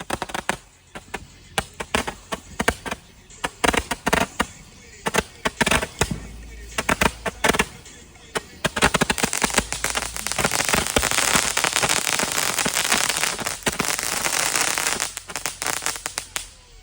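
Firecrackers going off: rapid runs of sharp pops, scattered at first. About nine seconds in they merge into a dense, continuous crackle that stops shortly before the end.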